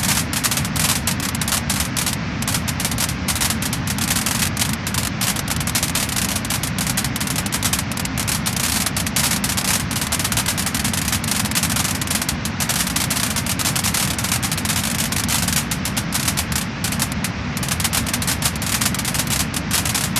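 Wood fire crackling and popping, with dense rapid crackles over a steady hiss.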